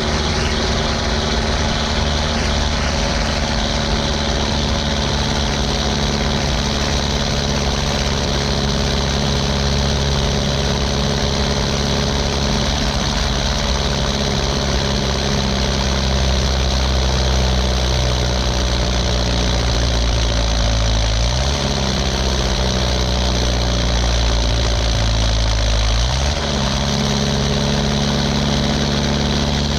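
Ursus 1014 tractor's four-cylinder turbocharged diesel running on a straight pipe. Its pitch sags slowly through the middle, then rises sharply about two-thirds of the way through and again near the end.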